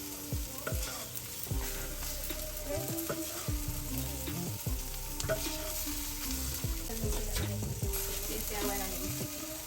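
Chicken pieces sizzling on a charcoal grill as jerk seasoning is put on them, a steady crackling hiss.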